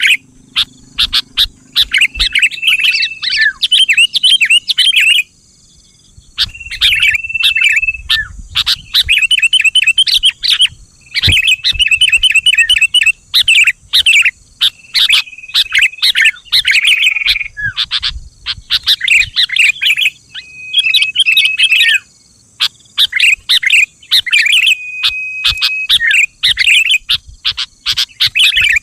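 Sooty-headed bulbul (kutilang) song: loud, continuous bursts of quick chirpy phrases, with short steady whistled notes among them. There are brief pauses about five and a half seconds in and again about twenty-two seconds in.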